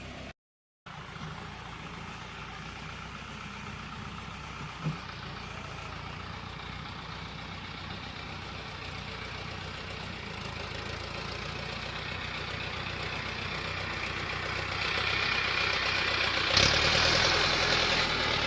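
Mahindra Arjun 605 tractor's diesel engine running steadily. It drops out for half a second just after the start, then grows louder over the last few seconds with a sudden rise near the end.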